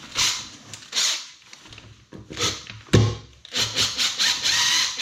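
Cordless power drill fixing pipe clips to a wall: two short bursts of drilling, a sharp knock about three seconds in, then a longer run of the drill.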